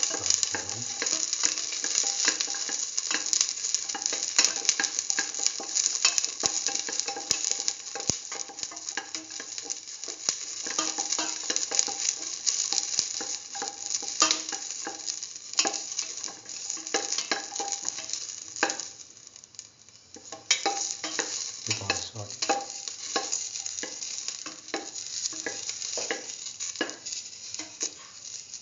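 Whole shallots sizzling in hot oil in a steel pan, with a spatula scraping and clicking against the pan as they are stirred. The sizzle drops away briefly about two-thirds of the way through, then picks up again.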